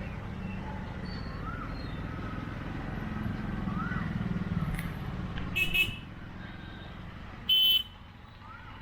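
Road traffic at a railway level crossing: a steady low engine rumble, cut by two short horn honks, the second louder, about five and a half and seven and a half seconds in.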